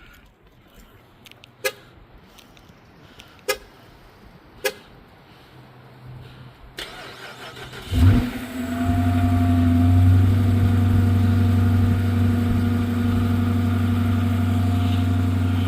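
A few sharp clicks over quiet, then about eight seconds in the Dodge 300's engine cold-starts with a short loud flare and settles into a steady fast idle.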